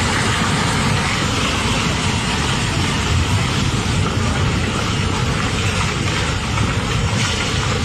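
Loud, steady roar of rushing floodwater, with no breaks or separate impacts.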